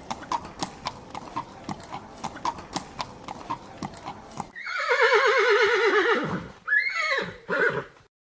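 Horse hooves clip-clopping at a steady pace for about four seconds. Then comes a long, quavering horse whinny and two shorter neighs near the end.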